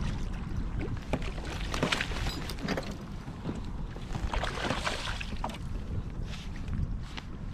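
Water splashing and sloshing close to a kayak in short irregular bursts, with wind rumbling on the microphone.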